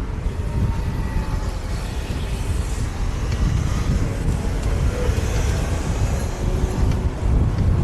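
City street traffic heard from a moving bicycle, with wind rumbling on the action camera's microphone. The level stays steady throughout, with faint tones of passing vehicles over the low rumble.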